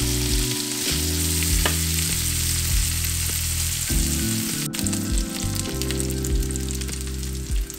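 Diced bacon and quartered white mushrooms sizzling in hot bacon fat in a skillet, stirred with a silicone spatula; a steady hiss of frying throughout. Low held notes of background music sit underneath.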